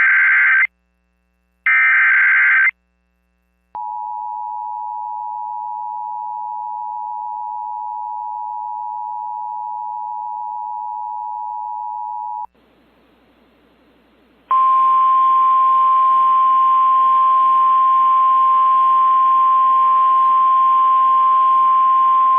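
Emergency alert broadcast tones. First come three short bursts of the buzzy digital data code used in weather alerts, then the steady two-note Emergency Alert System attention tone for about nine seconds. After a brief hiss, the steady single-note NOAA Weather Radio warning alarm tone plays over radio static for about nine seconds, signalling that a new warning follows.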